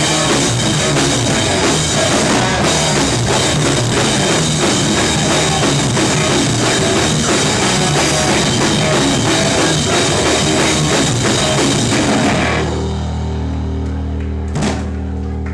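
Rock band playing live at full volume, the drum kit pounding fast under the guitars. About twelve seconds in, the drums stop and the band holds a final sustained chord that rings on, broken once by a single sharp hit near the end.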